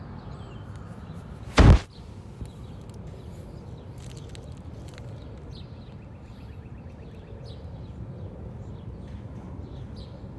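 Steady low outdoor rumble with faint small birds chirping, broken about one and a half seconds in by a single loud thump that lasts a fraction of a second.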